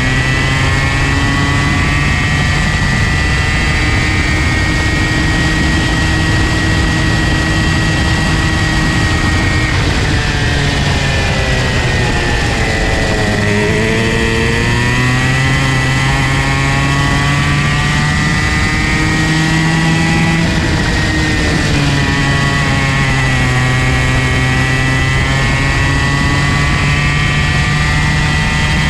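Comer C50 two-stroke kart engine running at high revs with a buzzing, steady pitch. The revs drop deeply about a third of the way in and climb back, then dip again briefly past two thirds, as the kart slows for corners and accelerates out.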